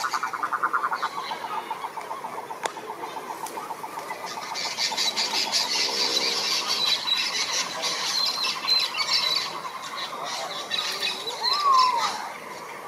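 Frogs calling. A rapid pulsed trill fades out in the first second, then a dense, high-pitched chorus of fast calls runs from about five to ten seconds in. Near the end comes a single squeal that rises and falls.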